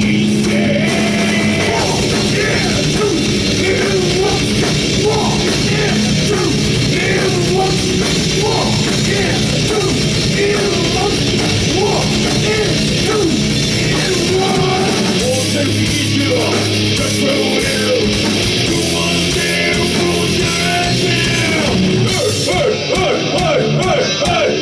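Loud live heavy rock music: a band playing at full volume, with a vocalist singing and shouting over it.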